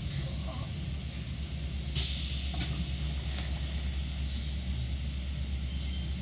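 Metra commuter train running: a steady low rumble with a few sharp clicks, the loudest about two seconds in.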